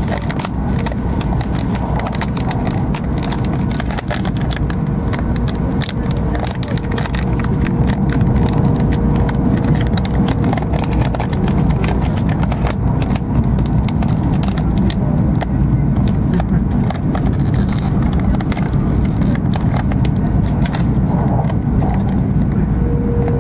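Cabin noise inside an E2 series Shinkansen running at high speed: a steady low rumble with many small clicks and a faint steady hum, growing a little louder about eight seconds in.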